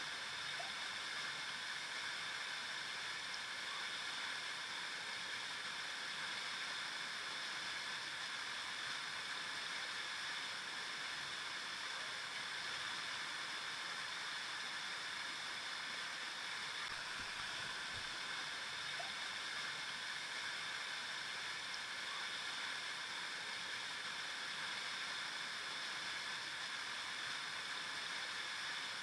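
River water flowing and babbling over rocks, a steady, even rush.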